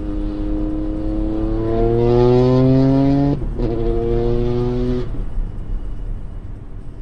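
Toyota GR Yaris Rally2 rally car's turbocharged three-cylinder engine accelerating hard, rising in pitch. It breaks off with an upshift about three and a half seconds in, pulls up again, then fades away.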